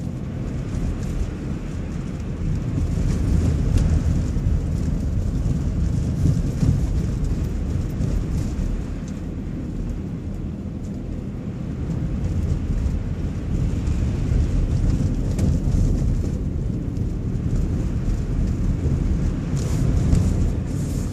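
Steady low rumble of a car's engine and tyres heard from inside the moving car, swelling and easing slowly.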